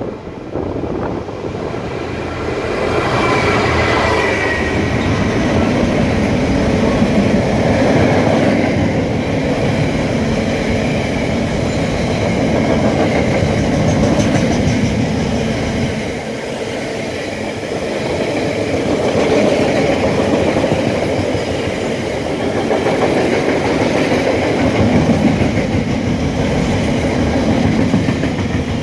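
A Class 66 diesel-electric locomotive's two-stroke engine approaching and going past in the first few seconds. It is followed by a long rake of loaded container wagons rumbling by, their wheels clattering over the rails.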